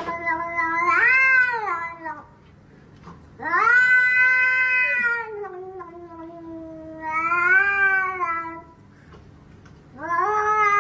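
A cat yowling in long, drawn-out calls that waver up and down in pitch, four in all, the last starting near the end.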